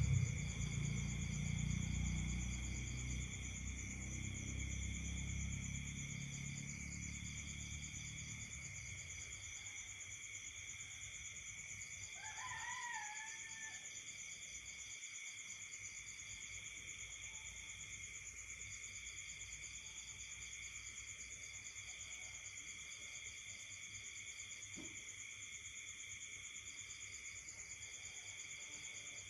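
Night insect chorus of several steady, shrill trills at different pitches, one pulsing in rhythm, with a low rumble fading away over the first several seconds. A single short wavering call rises and falls about twelve seconds in.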